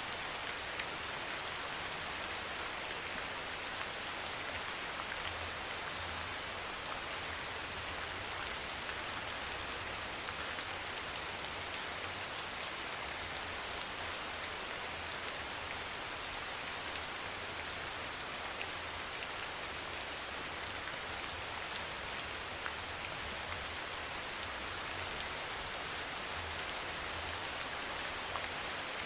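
Steady rain falling: a dense, even patter of drops on a surface, with no lulls or surges.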